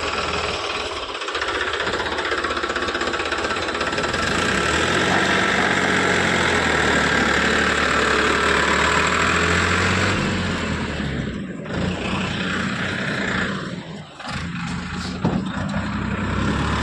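A vehicle engine running steadily, getting louder and fuller about four seconds in, with the level dipping briefly twice near the end as the vehicle is moved.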